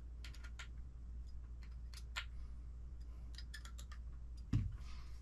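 Scattered light clicks and ticks of small metal kit parts and a small bench vise being handled during assembly, with one dull thump about four and a half seconds in.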